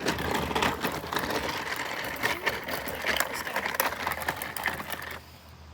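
Barefoot footsteps crunching and crackling over rough dry ground, a dense run of small cracks that stops suddenly about five seconds in.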